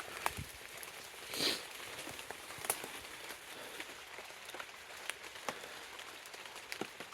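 Footsteps over rough ground, with scattered irregular crackles and ticks and one louder rustling brush about one and a half seconds in.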